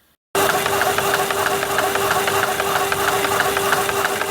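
Powered saw running while cutting a piece of bronze bar stock: a steady motor hum with a regular tick several times a second. It starts suddenly just after the start.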